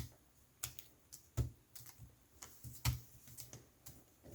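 A series of irregular light clicks and taps from hands handling the laptop's plastic chassis and small parts.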